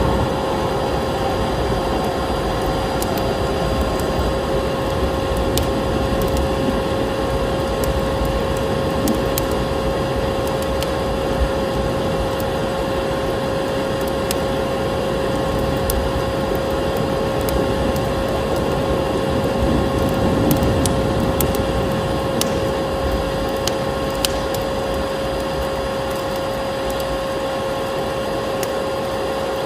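Vacuum cleaner running steadily with a constant motor whine, mixed with a wood fire crackling and popping in a fireplace.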